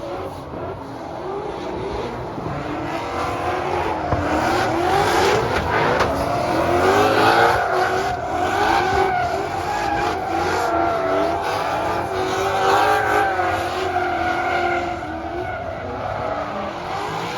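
Three drift cars running in tandem, their engines revving up and down over tyres squealing and skidding.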